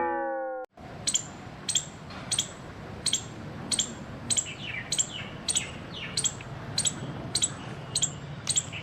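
A chime rings briefly and fades. Then a squirrel gives a run of sharp, chirping alarm calls, evenly repeated about one and a half times a second.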